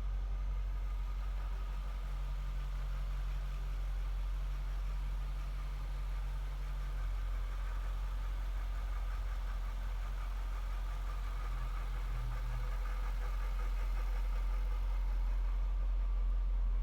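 Jaguar XKR's 4.0-litre supercharged V8 idling steadily, with a low even hum.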